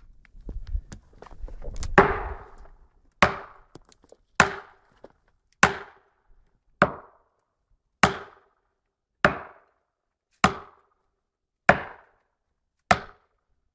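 Evenly paced chopping blows into wood, about ten strokes roughly a second and a bit apart, starting about two seconds in after a low rumble.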